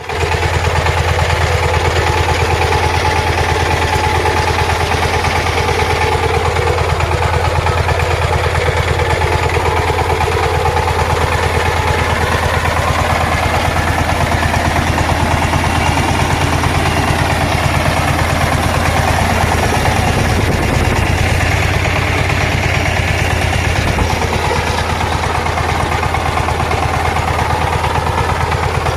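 Power tiller engine running steadily with a fast, even chugging beat.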